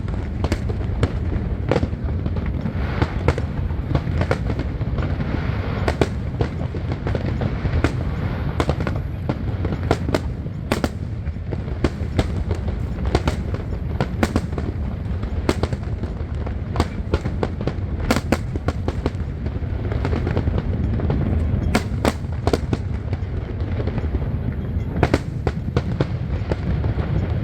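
Aerial fireworks going off in rapid succession: many sharp bangs and crackles, several a second, over a continuous low rumble.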